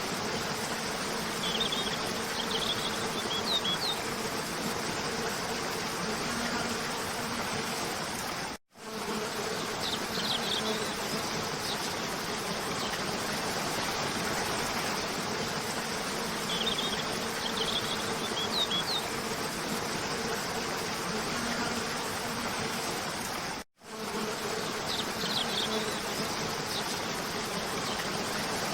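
Steady rush of a cascading waterfall with a low steady buzz, while small birds give short, high chirps in brief clusters every several seconds. The sound cuts out for an instant twice, where the looped track restarts.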